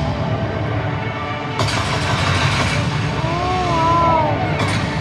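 Crowd of spectators making noise, swelling suddenly about a second and a half in, with drawn-out exclamations in the middle.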